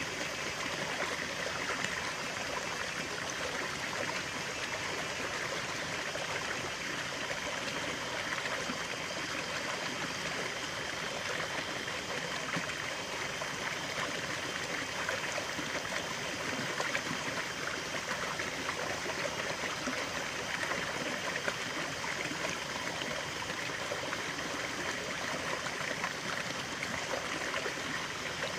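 Running water of a stream flowing and trickling in a steady, even rush.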